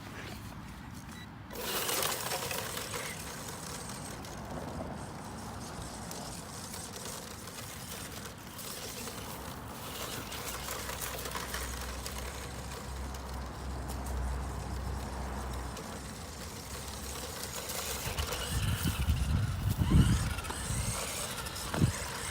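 Small electric RC truck (1/18-scale Axial trophy truck) driving over grass: a steady whir of motor, gears and tyres, with a few louder thumps near the end.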